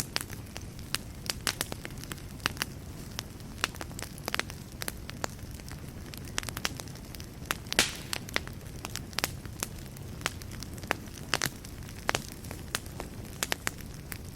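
Wood fire burning in a fireplace: a low steady rumble of flames with frequent, irregular sharp crackles and pops, one louder pop about eight seconds in.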